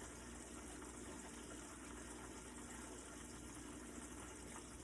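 Party wings deep-frying in a covered pot of oil: a faint, steady sizzle over a low, even hum.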